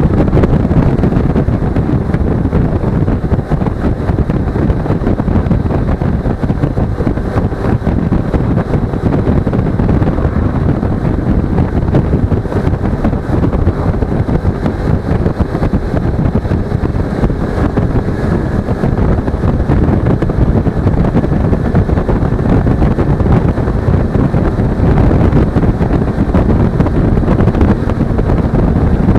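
Steady, loud wind noise rushing over an action camera's microphone on a moving motorcycle, a Suzuki V-Strom 250, with the bike's engine running beneath it.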